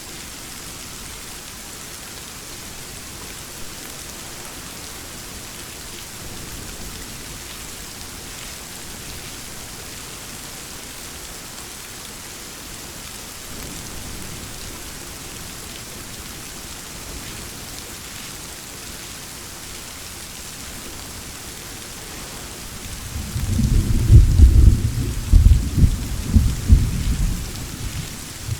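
Steady heavy rain hissing throughout. A faint distant rumble of thunder comes in the middle, then a loud low thunderclap rolls in with several peaks near the end.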